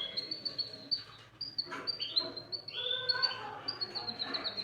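Domestic canary singing: a steady run of short, high chirps, with a couple of lower whistled phrases breaking in about two and three seconds in.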